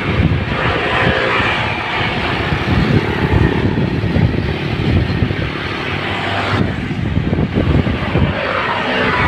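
Road noise while travelling through traffic: a vehicle engine running steadily with wind buffeting the microphone.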